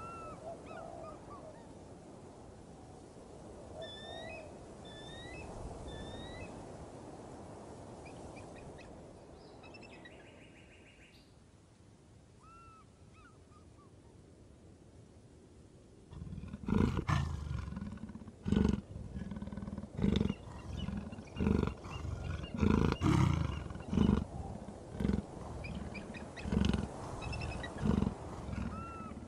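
A leopard's sawing call, starting about halfway through: a long series of loud coarse grunts, one to two a second. Before it, only faint bird chirps.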